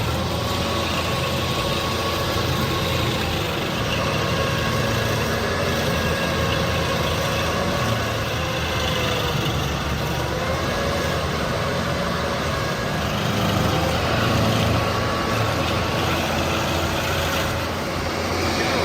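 Carlton 7015 TRX tracked stump grinder's engine running steadily, with a constant high whine over the engine drone.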